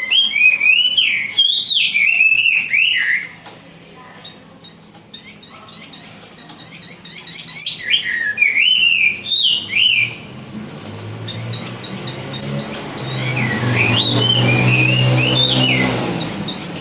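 Chinese hwamei singing in three loud bouts of fast, varied whistled phrases that sweep up and down, the song of a bird squaring up to a rival. A low steady hum swells under the last bout.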